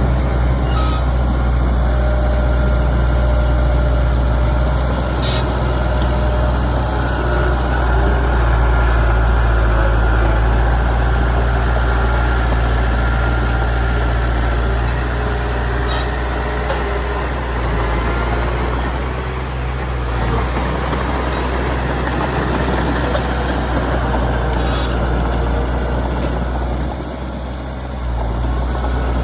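Diesel engine of a Komatsu D31PX crawler bulldozer running steadily, with a few brief clicks and a short drop in level near the end.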